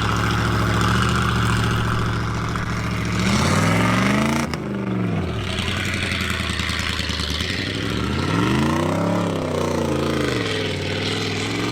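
Off-road vehicle engine running steadily, revved up and eased back down twice, about three seconds in and again about eight seconds in.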